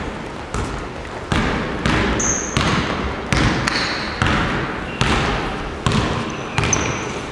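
Basketball dribbled on a gym floor: a steady run of echoing bounces, about one every 0.7 seconds, with a few short high squeaks.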